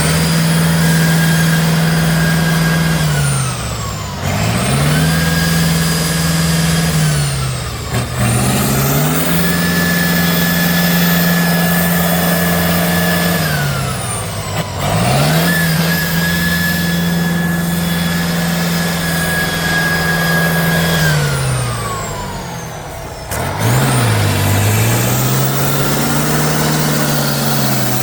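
Off-road truck's diesel engine revving hard and held at high revs for several seconds at a time, the revs dropping and climbing back about five times, with a whine rising and falling along with it.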